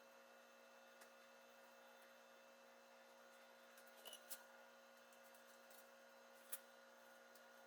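Near silence: a steady faint electrical hum with a few faint clicks, a pair about four seconds in and one more near the end.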